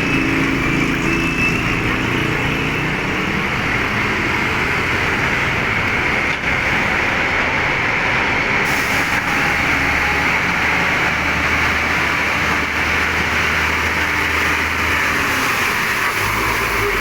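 Highway traffic: engines of cars and trucks running steadily in slow traffic, with a deep engine hum for several seconds about midway.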